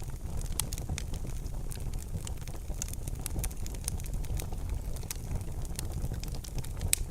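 Wood fire in a fireplace crackling, with irregular sharp pops and snaps over a steady low rumble of the burning fire; the loudest pop comes near the end.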